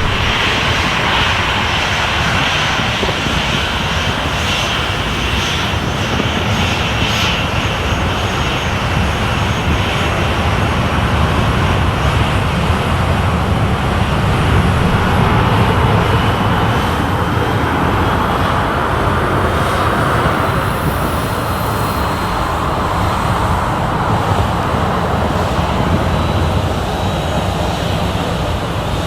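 Airliner engines running loud and steady, swelling slightly near the middle, with a faint rising whine.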